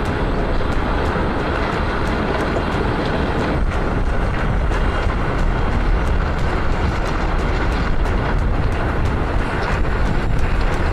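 Tsunami floodwater rushing in a loud, steady roar, with a few sharp knocks.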